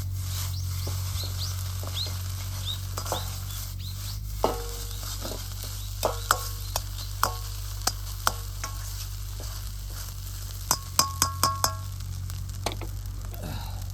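Rice sizzling as it is stir-fried in a hot iron wok, with a metal ladle scraping and clanking against the pan; the clanks ring briefly, and a quick run of five comes near the end.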